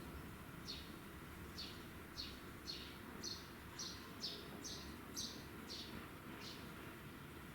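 A bird calling with a repeated series of short, high chirps that drop in pitch, about two a second, over a steady low background hum.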